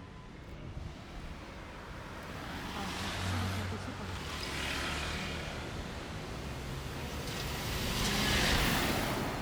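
Road traffic passing close by: two vehicles go past one after the other, their engine and tyre noise swelling and fading, the second louder near the end.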